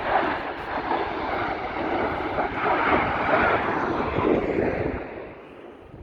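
Airplane flying past at an air show, a loud rushing engine noise that fades away over the last second or so.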